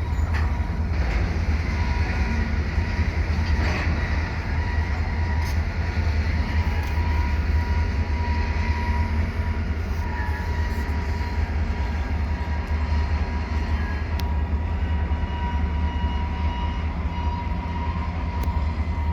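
EMD SD40-2 and GP38-2 diesel locomotives shoving at the rear of a loaded oil train, running under load as they pass. A steady low rumble with a thin, steady high whine over it.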